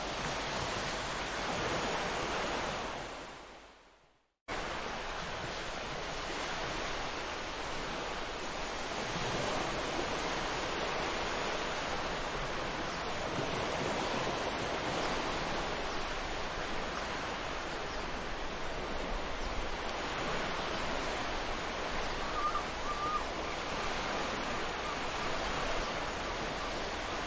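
Ocean waves washing onto a beach, a steady surf hiss. The sound fades to silence about four seconds in, then cuts abruptly back in half a second later, as at a loop or edit point.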